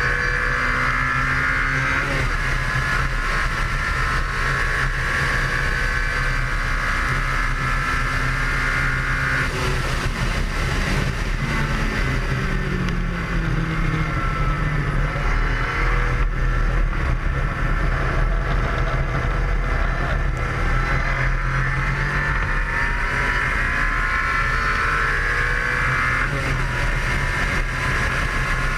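Ariel Atom's engine at speed, heard from its open cockpit with strong wind rush: revs climb at first, fall away through the middle as the car slows for a corner, then climb again near the end.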